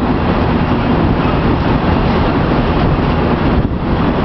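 SuperVia Série 1000 electric suburban train running along the track, with a steady, loud rumble of wheels on rail heard from an open window of the moving train.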